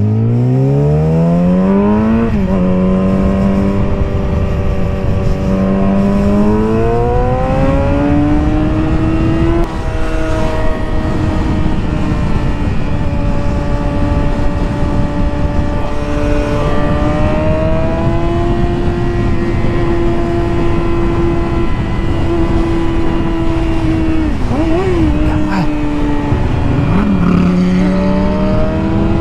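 Motorcycle engine accelerating hard through the gears, its pitch climbing and stepping at each shift, then running at a steady cruising speed with a couple of quick drops and recoveries in pitch near the end.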